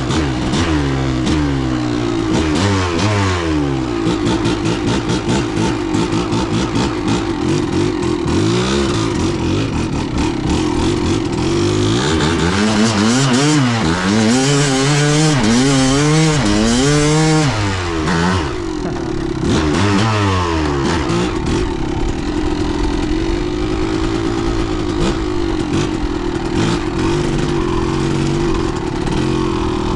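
Kawasaki KDX200 two-stroke dirt bike engine revving up and down while being ridden hard. About halfway through it is held at high revs for several seconds, then drops off sharply before picking up again.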